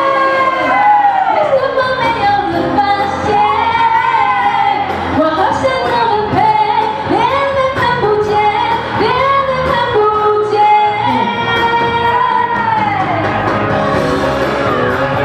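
A pop song with a sung lead vocal over backing music.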